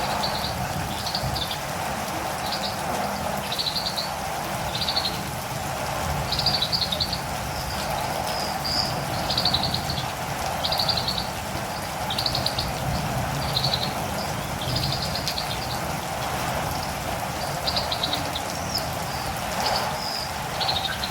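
Steady rain falling, with a catirumbava (olive-green tanager) calling over it in short, rapid, high chirp phrases, roughly one a second.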